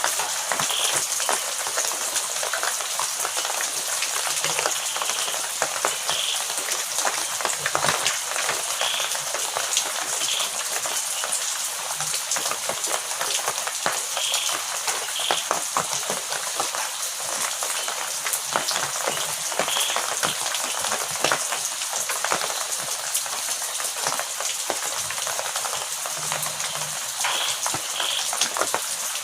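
Heavy rain falling steadily, a dense hiss of drops striking surfaces, with no thunder. Faint short chirps come every few seconds.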